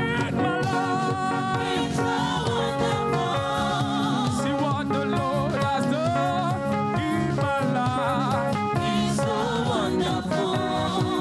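Live gospel praise music: voices singing a praise song with vibrato over a steady band accompaniment.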